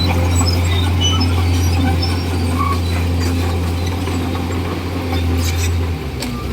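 Komatsu D41E bulldozer's diesel engine running steadily under work, a loud low hum that briefly drops near the end.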